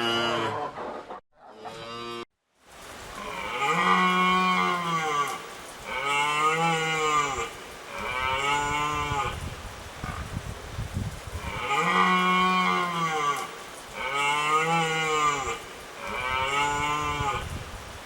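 Cattle mooing: about six separate moos, each one rising and then falling in pitch. Before them, another pitched sound cuts off about a second in, followed by a brief silence.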